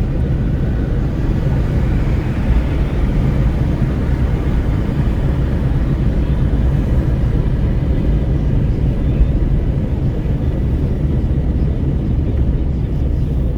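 Wind rushing through an open car window, with steady road noise, heard inside a Renault Kwid's cabin at highway speed.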